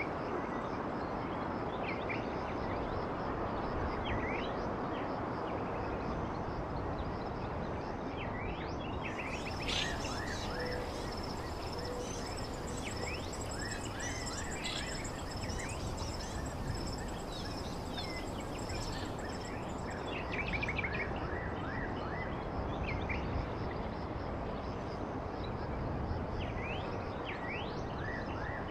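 Small songbirds chirping in short, quick calls over a steady background hiss, with a high, thin, steady trill through the middle.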